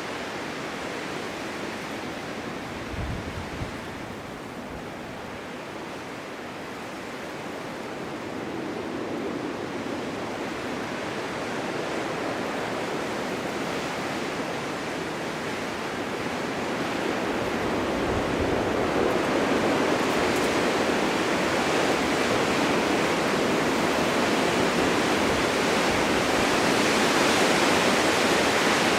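Snowstorm wind blowing steadily across a forest meadow, a dense rushing hiss that swells gradually louder through the middle and stays strong near the end. There is a brief low buffet about three seconds in.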